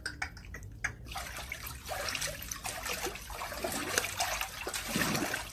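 Water running and trickling, with light splashing.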